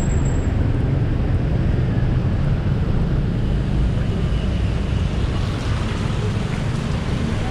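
Steady rumble of busy city road traffic, engines and tyre noise blended together.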